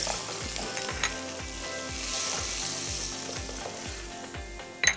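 Ghee sizzling steadily in a nonstick wok as mustard seeds, cumin, ginger, green chillies and turmeric fry in it, with a short sharp clink near the end.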